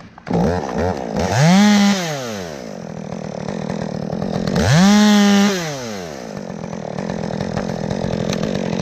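Chainsaw running and revved up to full throttle twice, each rev rising then falling back, with lower-speed running between and after.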